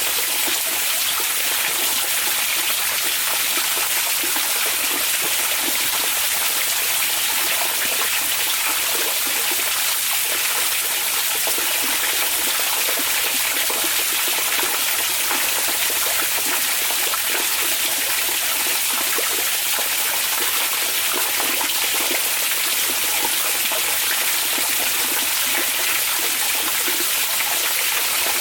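Onsen hot-spring water running steadily: an even, continuous rush of water.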